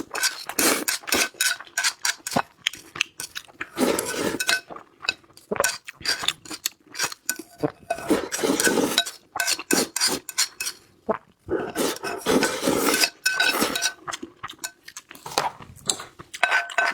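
Close-up eating sounds: utensils clinking and scraping against a bowl and plate in many quick, irregular clicks, with a faint ring after some of them, between stretches of chewing and crunching.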